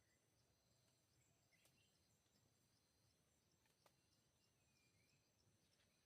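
Near silence with a faint, steady, high-pitched insect drone, two soft clicks and a few short, faint chirps.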